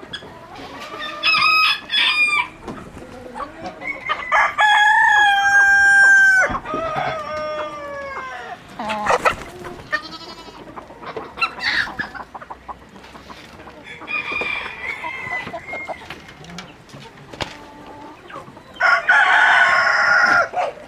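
Chickens clucking and a rooster crowing, with one long crow about four seconds in and a loud burst of calls near the end.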